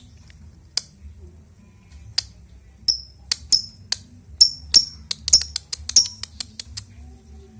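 Lovebird giving short, sharp, high-pitched chirps: a few spaced out at first, then a quick run of them from about three seconds in.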